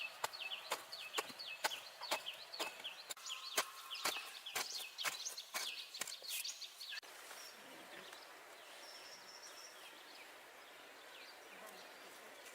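Rapid, irregular sharp clicks mixed with short, repeated falling bird chirps, which stop abruptly about seven seconds in, leaving faint outdoor ambience with an occasional chirp.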